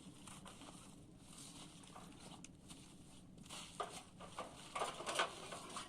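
Quiet outdoor background hiss with a few faint, brief scuffing noises in the second half; no saw is running.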